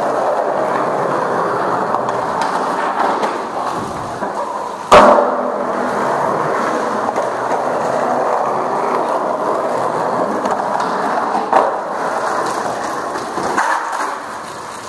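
Skateboard wheels rolling steadily over pavement, with one loud sharp clack of the board striking the ground about five seconds in and a few lighter clicks later.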